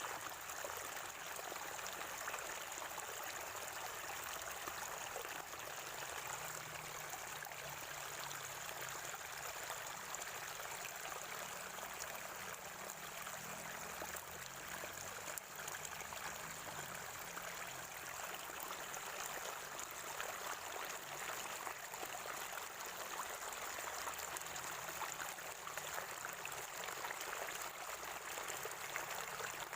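Water of a natural spring gurgling and trickling steadily, with many small splashes.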